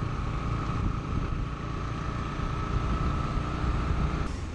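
Riding noise on a Bajaj Pulsar NS160 motorcycle: wind buffeting the microphone over the running engine. A steady high whine stops about four seconds in.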